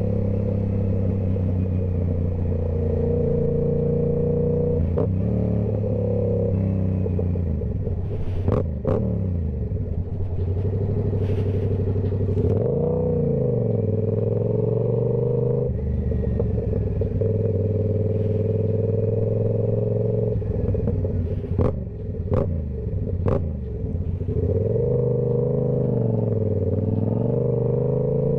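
Yamaha YZF-R7's 689 cc parallel-twin engine through a TOCE full exhaust system, running at steady riding revs that dip and climb again a few times. Several sharp cracks come in two clusters, about nine seconds in and again around twenty-two seconds.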